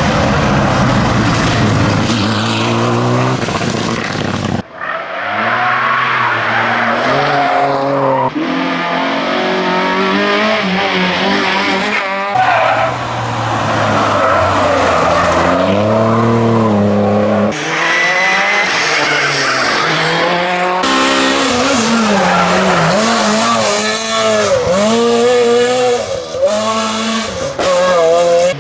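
Rally cars driven hard on a stage, one after another: engines revving high and dropping sharply through gear changes and lifts, the pitch rising and falling many times.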